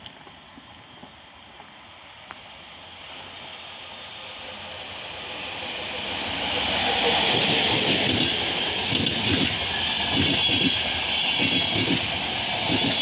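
A train approaching on the tracks, still out of sight, growing steadily louder. From about seven seconds in, the rolling noise of wheels on rails is loud, with a hiss and a run of low clattering thuds.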